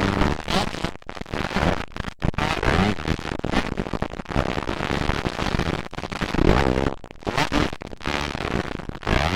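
Motocross dirt bike engines revving hard and rising in pitch through gear changes, loud and crackling with distortion.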